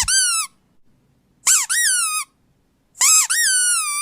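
A squeaky dog toy squeezed three times, each squeeze giving a pair of shrill squeaks that rise and fall in pitch, about a second and a half apart.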